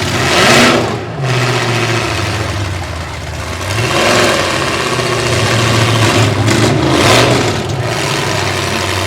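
Demolition derby trucks' engines running and revving, growing louder in three surges, about half a second, four and seven seconds in.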